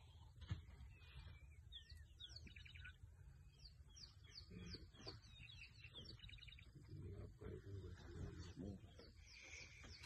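Faint birdsong: many short, repeated chirps from several birds over a low, steady rumble.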